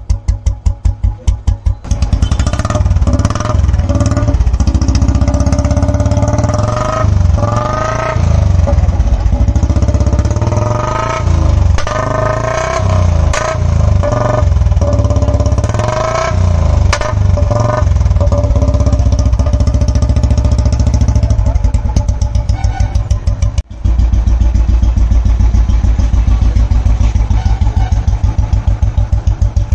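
Royal Enfield 350 single-cylinder engine (2006 Machismo engine) through a long Punjab-style exhaust, idling with an even thump, then revved up and down in repeated blips for about twenty seconds before settling back into a steady idle thump.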